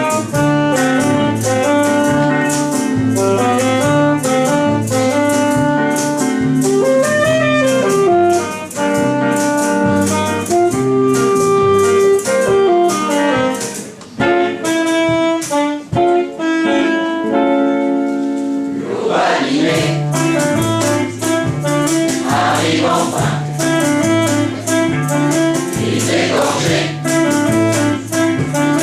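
Song accompaniment with a steady beat and a clear instrumental melody; about two-thirds of the way in, a choir starts singing over it.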